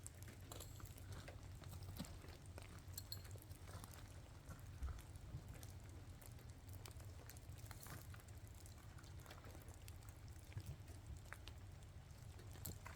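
Faint, irregular patter of raindrops or drips, small scattered ticks over a low steady rumble.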